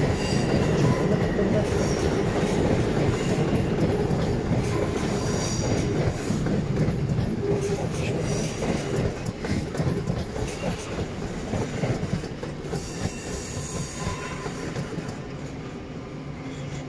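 Passenger train running over the station's pointwork: a steady rumble of wheels with clatter and short high-pitched wheel squeals that recur every few seconds. The rumble fades over the last few seconds as the train moves away.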